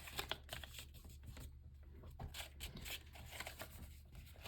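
Faint, irregular rustling and crinkling of a paper sheet being unfolded and refolded by hand, over a low steady hum.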